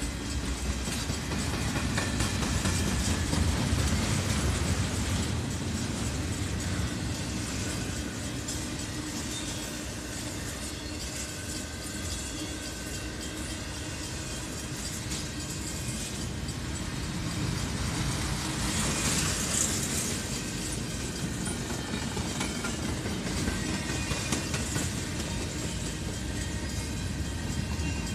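Cars of a CSX intermodal freight train, loaded with trailers and stacked containers, rolling past at speed: a steady rumble of steel wheels on the rails, swelling a little twice, with a brief brighter rush about two-thirds of the way through.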